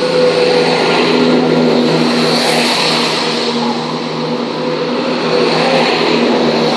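Class 171 Turbostar diesel multiple unit's engines running under power as the train pulls away from the platform, a steady low engine drone with a rushing hiss that swells about two to three seconds in and again near the end.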